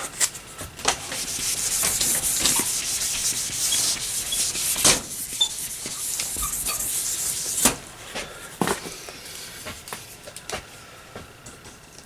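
Dry-erase marker drawing on a whiteboard: marker strokes rubbing along the board for several seconds, with a few sharp taps, then shorter and quieter strokes and clicks from about eight seconds in.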